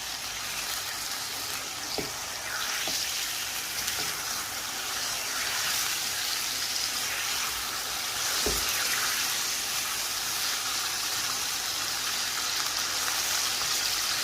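Pieces of a whole chicken sizzling steadily in hot oil in a karahi as they brown, with a few short knocks of the stirring spoon against the pan.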